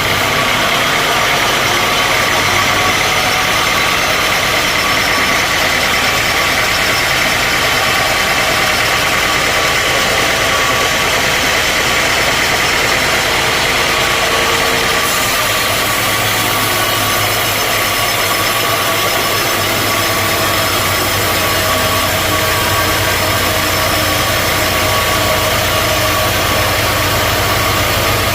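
Sawmill machinery running steadily, a loud continuous machine noise with a steady whine; the sound shifts slightly about halfway through.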